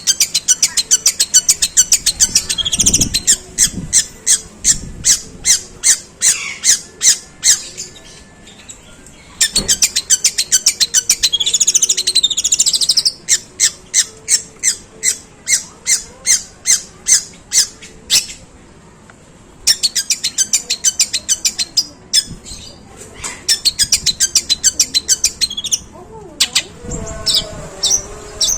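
Long-tailed shrike (pentet) singing long runs of harsh, rapidly repeated sharp notes in its 'tembakan' style, mimicking Eurasian tree sparrow calls. There are three long runs, with brief pauses about 8 and 19 seconds in.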